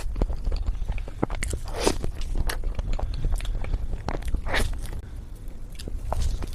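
Close-miked eating sounds of a person chewing mousse cake from a spoon: short wet clicks and smacks of the mouth, over a steady low hum.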